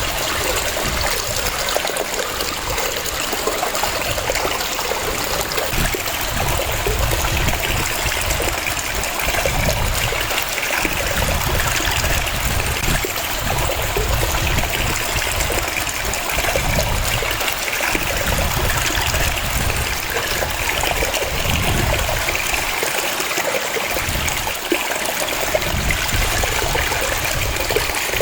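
Waterfall: a steady rush of falling water, with a low rumble that swells and fades every few seconds.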